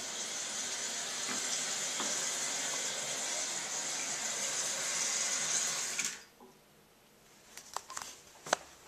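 Kohler Cimarron toilet tank refilling through its fill valve: a steady hiss of water that shuts off abruptly about six seconds in as the tank reaches its fill level. A few light clicks follow near the end.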